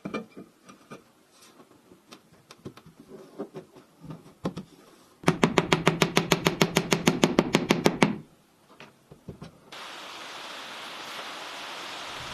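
Scattered light knocks and taps, then a rapid run of about two dozen hard knocks, about eight a second, lasting some three seconds. Near the end a steady hiss of rain sets in.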